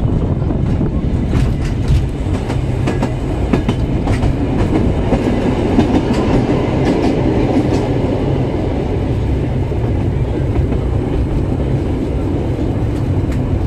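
Narrow-gauge steam train running, heard from an open carriage window: a steady rumble and clatter of wheels on the rails, with scattered sharp clicks. About halfway through it grows fuller for a few seconds as the train passes under a brick bridge.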